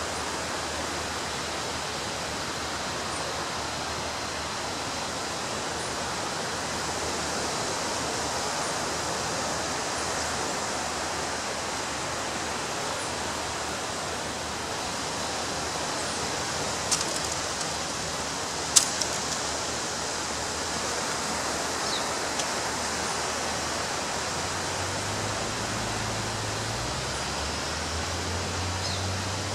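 Ocean waves breaking on a beach as a steady wash of surf, with two sharp clicks about seventeen and nineteen seconds in.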